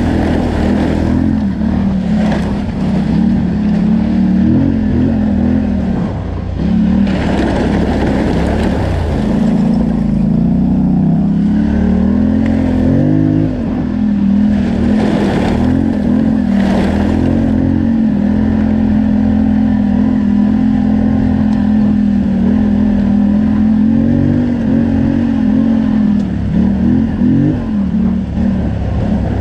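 ATV engine running while riding a trail, mostly at a steady speed; it slows to a lower pitch around ten seconds in, then picks up again, with a few brief rushes of noise along the way.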